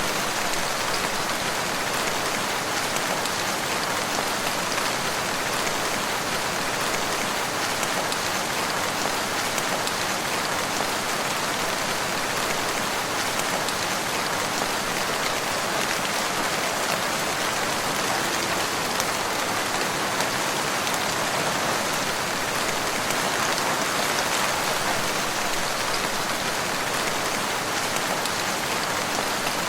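Steady rain falling in a forest, an even hiss of many drops with faint scattered drop ticks.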